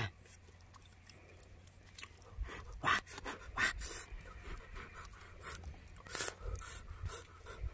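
A person eating, with irregular wet chewing and lip-smacking sounds and a few sharper clicks.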